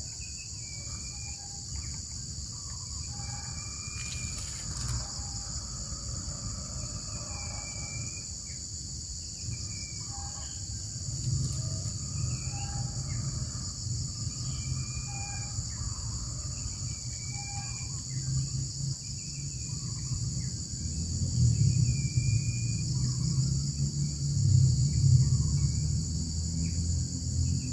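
A steady, high insect chorus with short bird chirps repeating every second or two. A low rumble grows louder through the second half.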